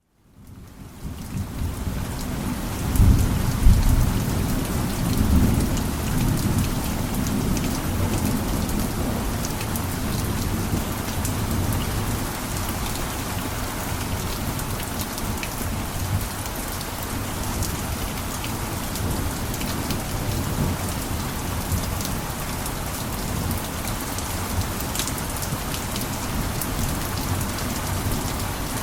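Steady heavy rain falling, fading in over the first second. A low rumble of thunder comes a few seconds in and dies away.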